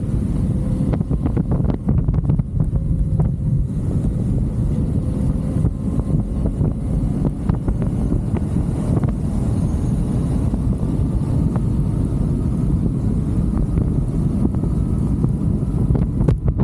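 Motorcycle riding along at speed: steady wind buffeting on the microphone, with the engine and road noise underneath.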